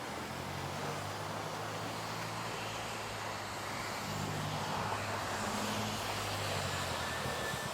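A motor vehicle's engine running with a steady low hum, its pitch shifting slightly a few times.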